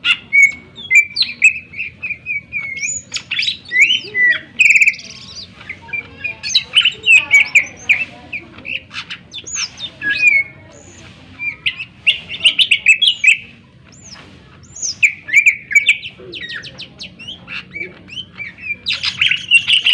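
Cucak ijo (green leafbird) singing loud, rapid phrases of sharp chirps and trills, with short pauses between phrases.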